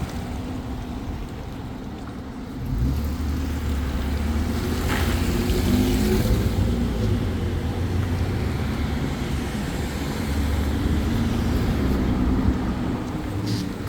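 A motor vehicle's engine running under way, swelling louder about three seconds in and rising and falling in pitch as it speeds up and eases off, with wind and road noise.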